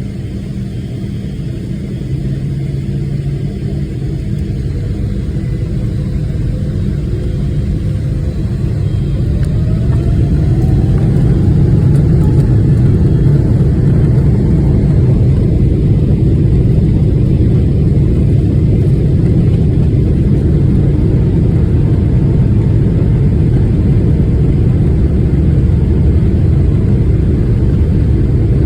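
Boeing 777-300ER's GE90 turbofan engines at takeoff power, a deep rumble that builds over the first ten seconds and then holds loud and steady through the takeoff roll and climb-out, with a faint rising whine about ten seconds in.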